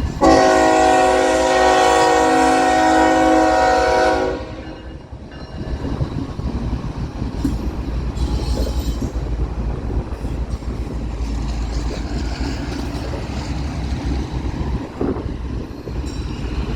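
BNSF freight locomotive's air horn sounding one long blast of about four seconds, several notes at once. Then the steady rumble of the freight train rolling past.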